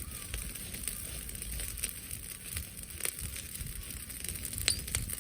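Brushwood bonfire crackling, with scattered sharp pops and snaps over a low wind rumble; one louder pop comes near the end.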